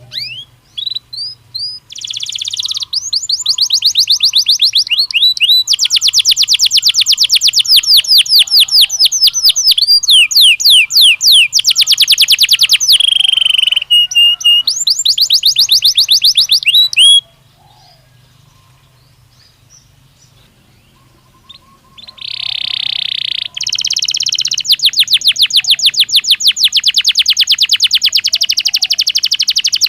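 Belgian canary singing: long, fast trills of rapidly repeated notes. A pause of about five seconds comes just past the middle before the song starts again.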